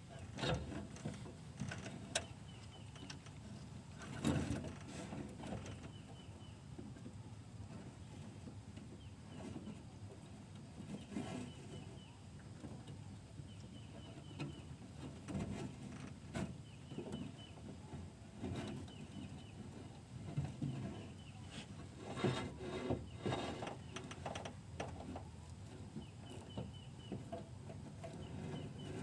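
Outdoor ambience with a low rumble and scattered knocks and bumps. A bird chirps repeatedly in short high phrases at several points.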